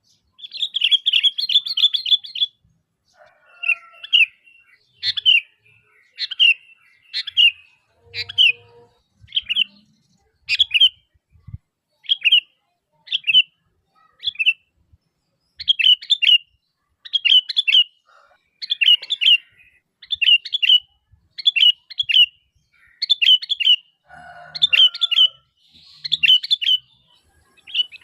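Sooty-headed bulbul (kutilang) calling: short, bright chirping phrases repeated about once a second, with a rapid chattering run near the start.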